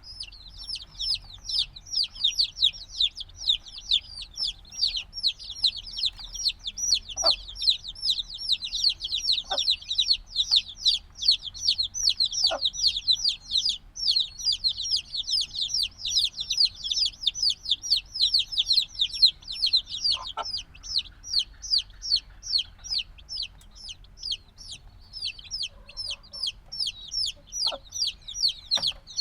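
A group of chicks a few days old peeping continuously, many short downward-sliding peeps a second overlapping from several birds, with a few faint soft knocks among them.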